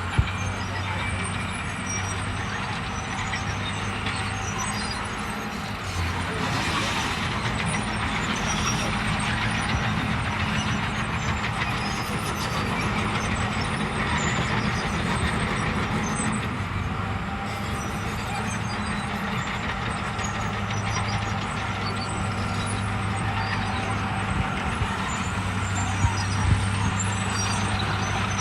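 Diesel engines of heavy earthmoving machinery running steadily, with a few sharp knocks about a quarter second in and twice near the end.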